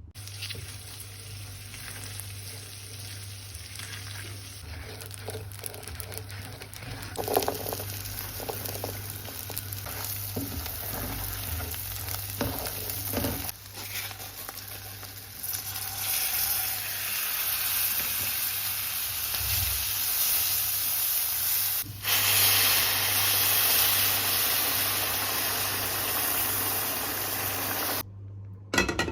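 Food sizzling in a hot frying pan, getting louder in the second half, with a few knocks of cooking utensils in the first half.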